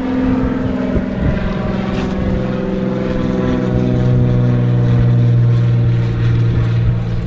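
A motor running steadily with a low, even drone, its pitch shifting slightly partway through.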